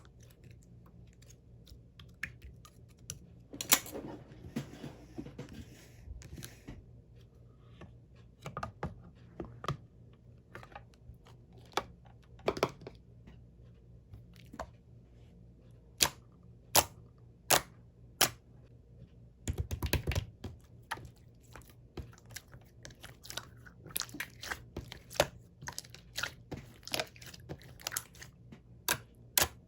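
Slime being pressed and squeezed by hand, giving off scattered sharp popping clicks, with a quick dense run of them about twenty seconds in.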